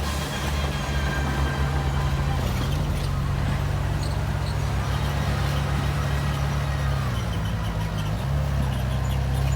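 Bulldozer's diesel engine running steadily under load while pushing soil. Its low note dips briefly about three-quarters of the way through and then picks back up.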